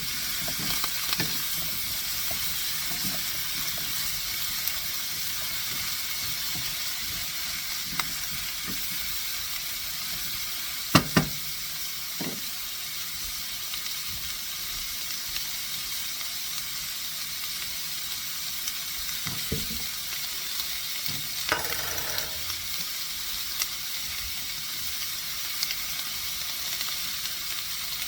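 Chicken breasts sizzling steadily in hot oil in a frying pan. A few sharp knocks sound over it, the loudest two close together about eleven seconds in.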